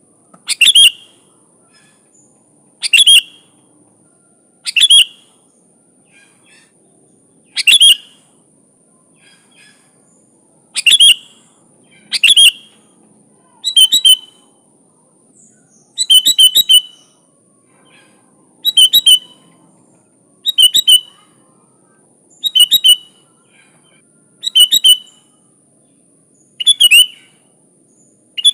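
Sooty-headed bulbul calling: short, loud, chirpy phrases repeated about every two seconds, with a faint steady high whine behind them.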